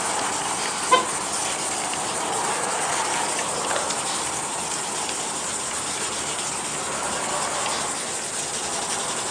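2000-grit wet/dry sandpaper scrubbing a wet plastic headlight lens, a steady hissing rub, with a brief sharp tap about a second in.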